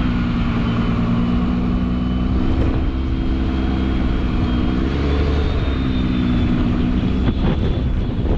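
Truck engine running at low, steady revs, rising slightly about five seconds in and easing back near the end, with a thin high whine alongside.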